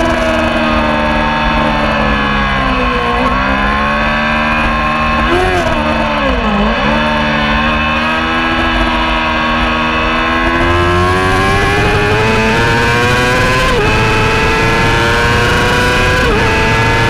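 Racing motorcycle engine heard from on board: the engine note falls with several sharp dips as the bike slows into a corner, then climbs steadily under hard acceleration, with two brief drops near the end as it shifts up a gear.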